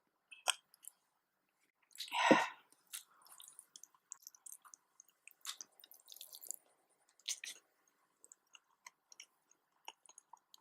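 A person chewing and eating nasi dagang, with many short mouth clicks and smacks and one much louder smack or slurp about two seconds in.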